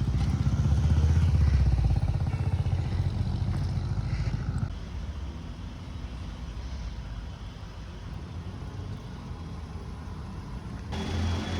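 Street traffic: a nearby vehicle engine running loudly for the first four to five seconds, then dropping to a quieter rumble of traffic, with an abrupt change in the background near the end.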